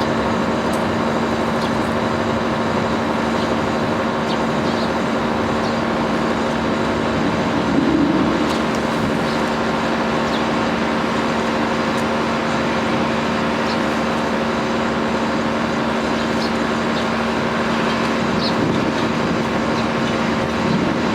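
Steady traffic and town noise with a constant low hum, over which a few faint, short, high chirps of tree sparrows come now and then.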